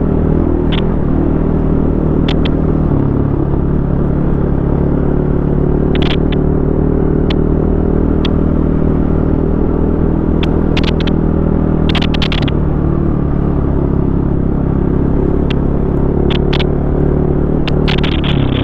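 Single-cylinder four-stroke enduro dirt bike engine running under way on a rough trail, its note shifting a couple of times as the throttle and gears change. Scattered sharp clicks and knocks sound over it throughout.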